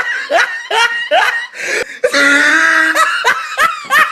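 A person laughing hard in short, high-pitched rising yelps, two or three a second, with a long held squeal about two seconds in.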